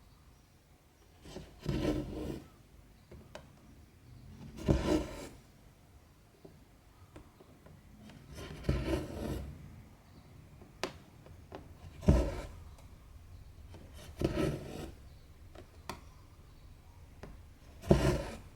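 Cotton embroidery thread pulled through cross-stitch fabric with a rasping rub, six times at roughly three- to four-second intervals, with small needle ticks in between.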